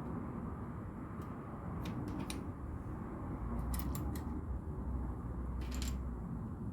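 Small hard plastic clicks of LEGO pieces being handled and pressed together, a few single clicks and short clusters, over a steady low hum.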